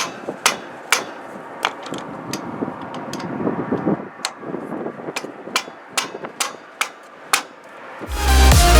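Sharp knocks and clanks of tools about twice a second, irregular, from tightening a trailer wheel's lug nuts with a breaker bar and a block of wood during a roadside tire change. Electronic dance music comes in loudly near the end.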